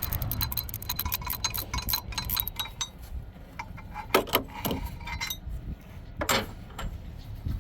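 Hand tools working on a junk car's engine: rapid metallic clicking for the first few seconds, then a few separate sharp metal clinks.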